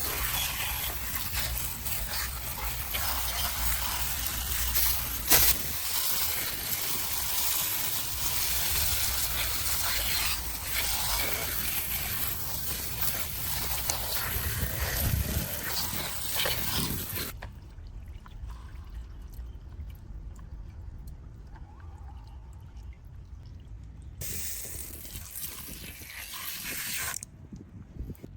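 Water spraying and trickling over a die-cast model truck as it is washed. The spray stops about two-thirds of the way through, leaving small clicks and handling sounds, then comes back for a few seconds near the end.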